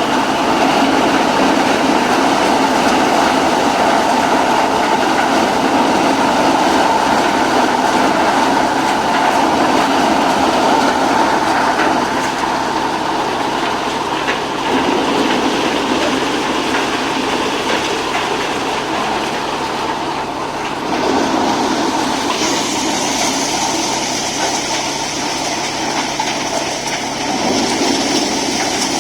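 Tractor-driven maize thresher running: a loud, steady mechanical rattle. A higher hiss joins in about two-thirds of the way through.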